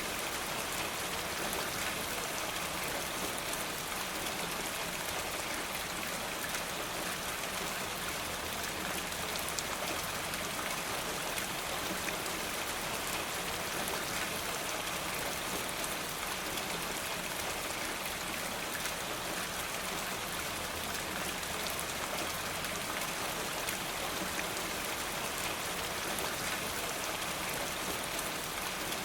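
Steady rain falling through trees and onto surfaces: an even hiss with a dense patter of drops.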